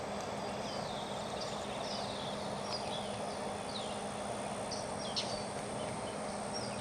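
Several birds chirping and calling, with short falling notes and a rapid trill near the start, over a steady background hiss.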